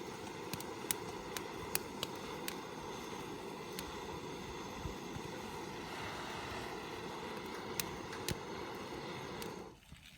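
A steady rushing roar from something forcing air or flame into a wood fire, cut off suddenly near the end. Sharp crackles and pops of burning wood sound throughout, and go on after the roar stops.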